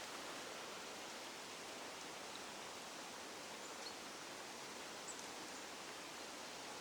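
Steady, faint forest background hiss, with a few faint, short, high chirps.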